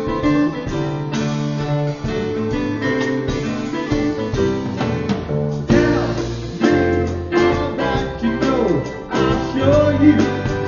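Live acoustic band music with plucked acoustic guitar, playing a passage of a folk song between sung lines. Some sliding, gliding notes come in during the second half.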